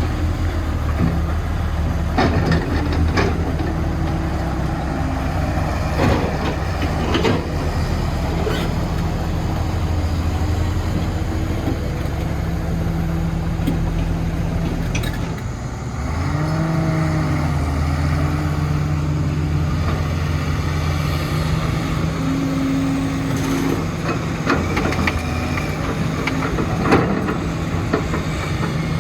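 Diesel engines of heavy construction machinery running steadily, with a brief dip and a rise in engine pitch about halfway through. Occasional sharp clanks are heard throughout.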